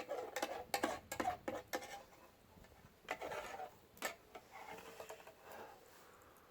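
A utensil scraping and clicking against a pan, clearing off the last stuck-on bits: a quick run of scrapes in the first two seconds, a few more strokes around three and four seconds in, then softer rubbing.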